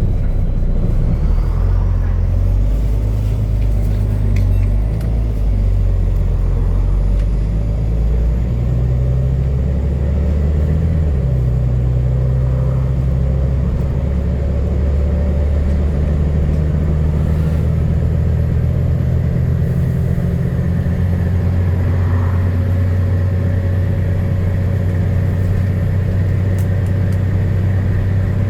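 Double-decker bus's diesel engine pulling hard up a hill, heard from on board, with a loud exhaust note from a burst exhaust. The low drone shifts pitch a few times around the middle, then holds steady.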